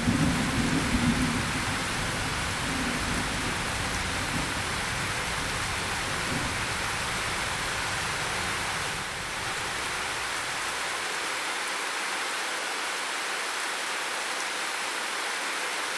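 Steady rain, with a low rumble of thunder dying away in the first few seconds.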